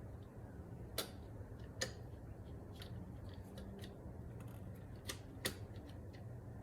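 Scattered light clicks and taps of parts being handled and fitted by hand during engine reassembly, four sharper ones among smaller ticks, over a faint steady low hum.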